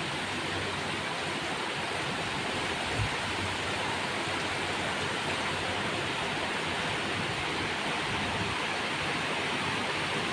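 Heavy rain falling as a steady, even hiss, with one brief low thump about three seconds in.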